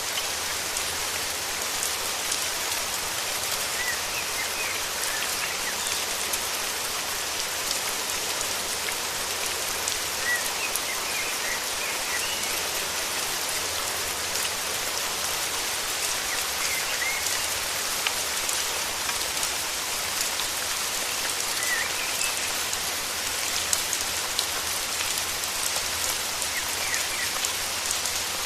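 Steady rain falling, a dense even hiss full of pattering drops. Faint short bird chirps come through it now and then.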